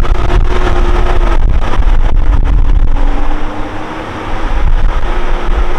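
Four-wheel-drive truck driving across desert sand, its engine droning steadily under heavy low rumble and wind buffeting on the microphone, easing briefly about two-thirds of the way through.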